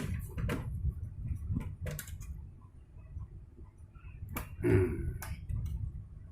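Scattered clicks and knocks of hands handling and opening the plastic cabinet of a Sony MHC-V02 music system, over a steady low rumble, with a louder scraping knock about three-quarters of the way through.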